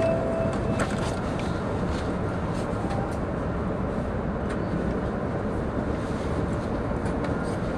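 Steady running noise of a 700 series Shinkansen heard from inside the passenger cabin: an even rumble with a few faint clicks.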